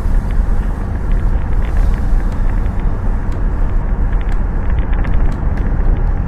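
Motor vehicle driving, with a steady low rumble of engine and road noise and a few faint ticks and rattles.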